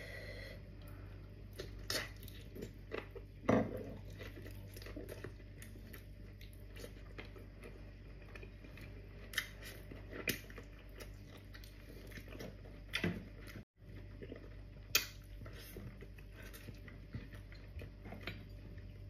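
Close-miked mouth sounds of someone chewing and biting into boiled cow's feet: soft, sticky smacks and clicks scattered over a steady low hum. The sound cuts out completely for an instant about two-thirds through.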